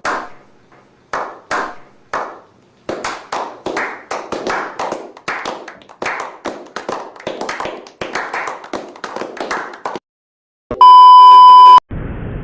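Hand clapping: a few single claps, then a quick run of claps for about seven seconds that stops abruptly. A loud, steady one-second beep follows, and steady road noise starts just before the end.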